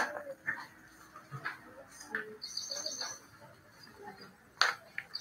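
A bird calling a quick run of high, evenly spaced chirps, heard twice about three seconds apart. Under it are scattered taps and rustles of pens and paper, with a sharp click at the very start.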